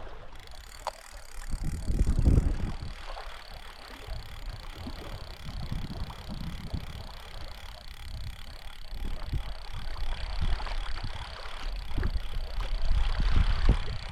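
Fishing reel being cranked as a lure is retrieved, over low rumbling of wind on the microphone that swells about two seconds in and again near the end.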